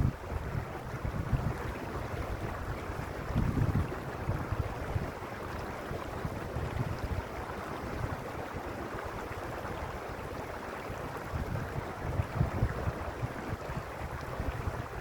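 Mountain stream rushing and babbling over stones, a steady watery hiss, with occasional low gusts of wind buffeting the microphone.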